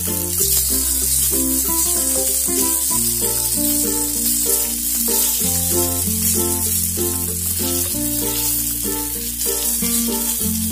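Korean dumplings (mandu) sizzling as they pan-fry in oil, a steady high hiss, under background music with long bass notes that change every few seconds.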